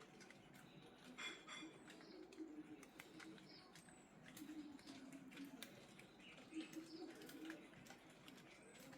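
Faint birdsong: low, repeated calls with a few short high chirps, over scattered light clicks.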